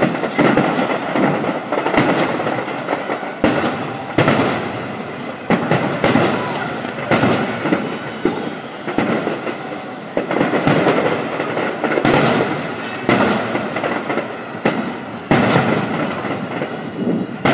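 Fireworks display: aerial shells bursting in sharp bangs every second or two over a continuous rumble of overlapping explosions.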